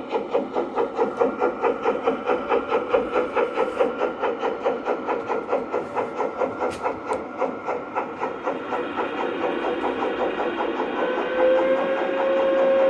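Sound of an LGB garden-scale model steam locomotive: rhythmic chuffing, about three chuffs a second at first, speeding up until the beats blur into a steady hiss. A steam whistle comes on about three-quarters of the way through and holds to the end.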